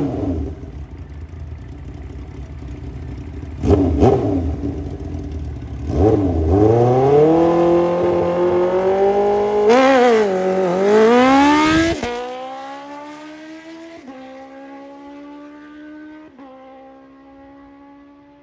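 Motorcycle engine revved in two short blips, then launching down the drag strip at full throttle, its pitch climbing through the gears. The sound then drops sharply and fades as the bike pulls away, with small shifts in pitch still audible.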